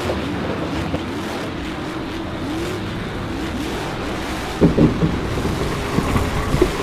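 A steady vehicle engine sound whose pitch repeatedly rises and falls, with a few heavy thumps about four and a half to five seconds in.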